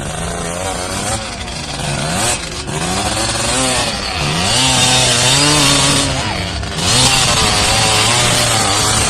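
Off-road competition engines revving, their pitch rising and falling again and again, with a rasping edge and a hiss that swells from about four and a half seconds in.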